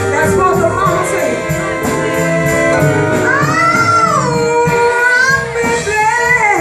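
Live band music with a singer holding and sliding long notes over sustained instruments and bass, and a steady high percussion beat of about four strikes a second.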